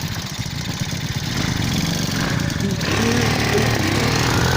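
Motorcycle engine running and pulling away, getting louder and fuller from about three seconds in.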